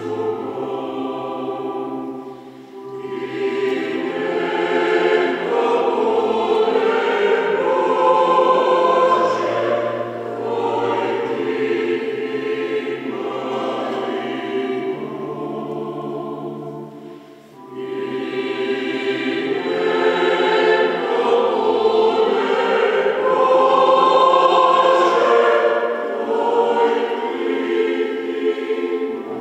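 Mixed choir of women's and men's voices singing a hymn in parts. The singing dips briefly at two phrase breaks, about two seconds in and a little past the middle.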